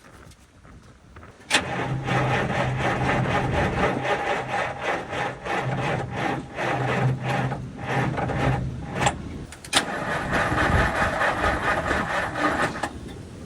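Cummins diesel engine cranking slowly on its starter without catching, on weak batteries and a booster pack after a shot of starting fluid. It cranks twice: about seven and a half seconds, then after a short break about three more. Each crank has a steady pulse of compression strokes, about three a second.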